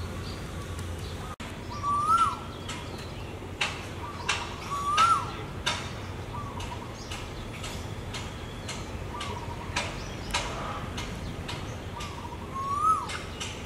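Birds calling: a short whistled call that rises and then drops sharply, repeated three times, among quick sharp chirps, over steady low background noise.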